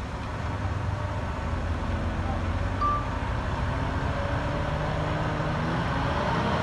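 Heavy diesel engine of an earthmoving machine running under load, its pitch shifting and growing slowly louder, with a brief high squeak about three seconds in.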